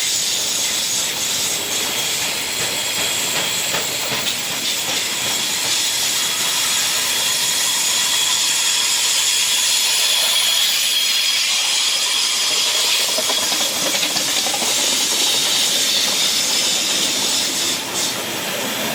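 Train wheels squealing and hissing against the rails as a train passes: a steady, high-pitched, hissy screech with several shrill tones held throughout.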